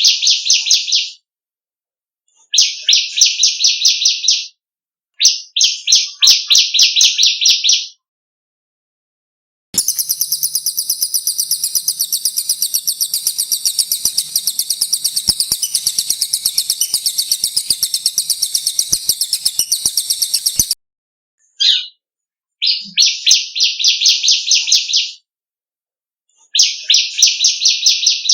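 Songbirds of the kinds sold as cililin and ciblek (bar-winged prinia) song for training cage birds. Twice, then again near the end, there are bursts of rapid, rattling notes a second or two long with short pauses between. About ten seconds in, one continuous, very high, shrill trill runs for roughly eleven seconds before cutting off.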